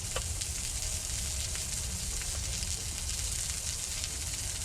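Steady sizzling hiss over a campfire, with faint scattered crackles.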